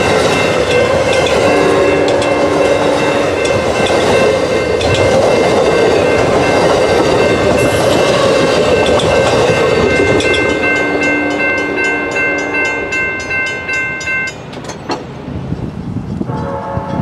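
Amtrak passenger train rolling past at speed, with steady rumbling wheel-and-rail noise and several high, steady ringing tones over it. The tones cut off suddenly near the end, and the train noise then fades.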